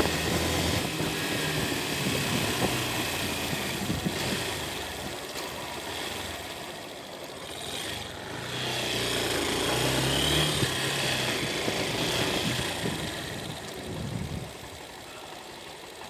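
Motorcycle engine running while riding, with wind noise; the engine note eases off about halfway through, picks up again, and drops quieter near the end.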